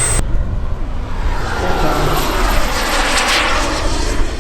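Radio-controlled model aircraft flying past, its engine noise swelling to a peak about three seconds in and then easing off.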